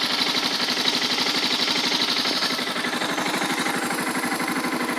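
Suzuki DR650's single-cylinder four-stroke engine idling steadily through its stock exhaust, an even rapid pulse, warming up after a cold start with the choke off.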